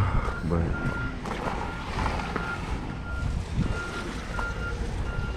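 Truck backup alarm beeping steadily, about three beeps every two seconds, over the low rumble of an idling diesel truck engine.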